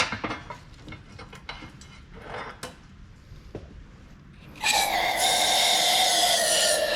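Metal parts and tools clinking lightly, then, about two-thirds of the way through, a sudden loud, steady hiss of pressurised gas with a whistling tone that sags slightly in pitch.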